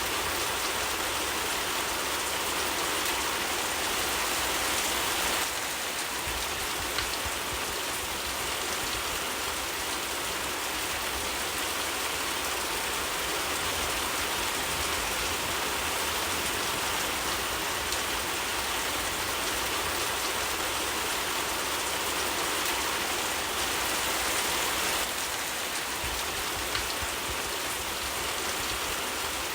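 Steady rain falling, an even hiss of drops on surfaces, with now and then a faint crackle from a wood fire.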